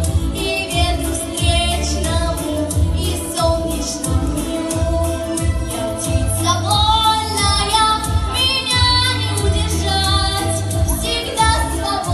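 A solo female voice singing a song over instrumental accompaniment with a steady, pulsing beat, the held notes sung with vibrato.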